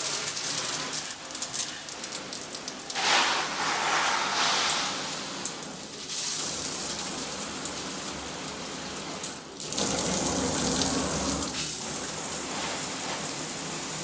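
Water spraying from a filtered shower head, a steady hiss that changes character abruptly several times as the spray setting is switched.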